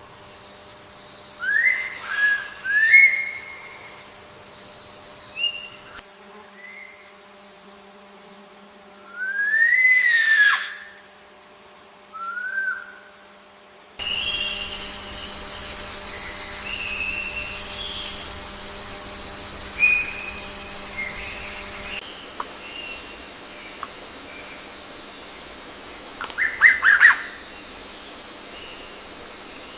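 Forest birds whistling: short, clear notes that slide up and down, a few at a time. About halfway through, a steady high insect drone joins in, and near the end there is a quick burst of chirps.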